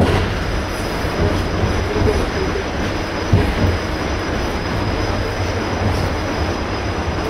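ED4M electric suburban train running along the track, heard from inside the carriage: a steady rumble of wheels on rails, with two sharp knocks, one at the start and another about three and a half seconds in.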